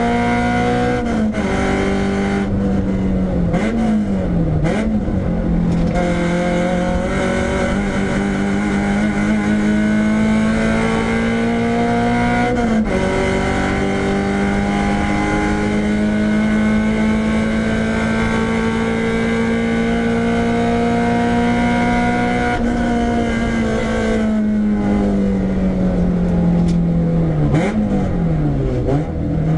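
Renault Clio 172's 2.0-litre four-cylinder engine under hard acceleration on track, climbing in pitch and dropping sharply at upshifts about a second in and again about 13 s in. Near the end the engine note falls as the driver brakes, with quick rev blips on the downshifts.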